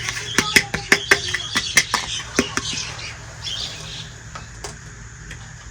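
A quick series of sharp clicks and taps, small hard pieces knocking together, about a dozen in the first three seconds and then only a few, with faint squeaky chirps behind.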